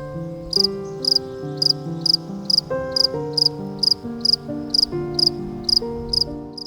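Short high chirps repeating evenly, about two a second, over background music with sustained notes and a slow melody; both stop suddenly at the end.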